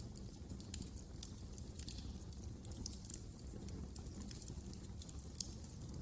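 Wood fire in a fireplace crackling: irregular sharp pops and crackles, several a second, over a steady low rumble of the flames.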